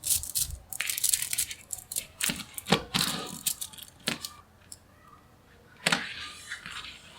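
Small magnetic metal balls clicking and clattering together as they are handled and snapped into place: a run of rapid clicks over the first few seconds, then quieter, with one sharp click about six seconds in.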